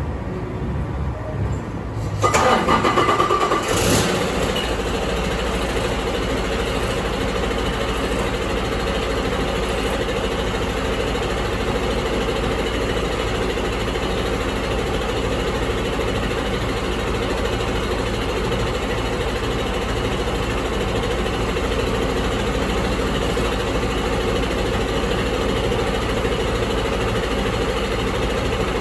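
Detroit DD15 inline-six diesel engine being started: the starter cranks it about two seconds in with a high whine, the engine catches within a couple of seconds, and it then idles steadily.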